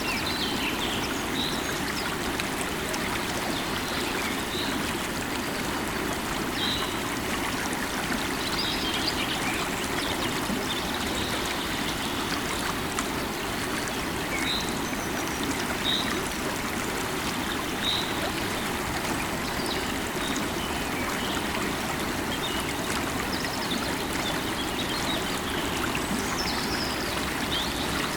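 A river of running water flowing and rushing steadily, with birds calling now and then over it in short chirps.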